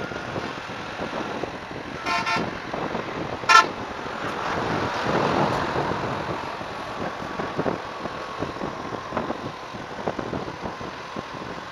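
Road traffic and wind noise heard while riding on a motorcycle, with two short vehicle horn toots about two seconds in and again a second or so later. The second toot is the loudest sound.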